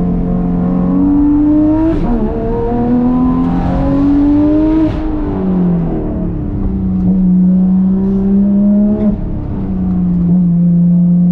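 Porsche 991.2 GT3 RS's naturally aspirated flat-six, fitted with catless straight-through exhaust pipe and headers, pulling hard through the gears. Its note climbs and drops back at the gear changes several times, with short sharp cracks at some shifts.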